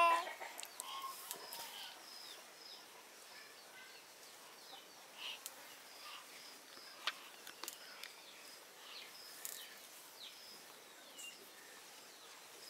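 Quiet outdoor ambience with faint, short bird chirps scattered throughout and a few faint clicks. A toddler's brief babbling cry comes right at the start.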